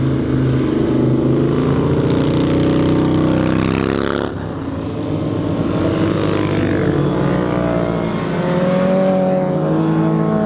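Vehicle engines revving hard and climbing in pitch as they accelerate, with one passing by about four seconds in.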